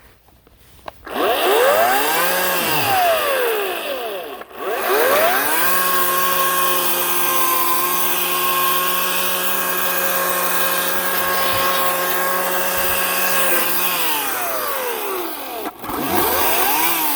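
Ryobi 18-inch electric chainsaw motor spinning up with a rising whine and winding back down. It spins up again and runs at a steady high speed for about eight seconds before winding down, then revs up and down once more near the end.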